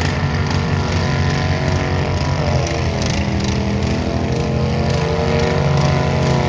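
Farm tractor engine running loud and continuous, its pitch sagging slightly in the middle and climbing again.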